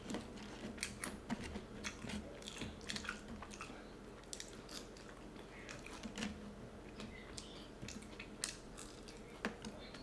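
A person chewing and biting food close to the microphone: many small wet mouth clicks and soft crunches, scattered irregularly.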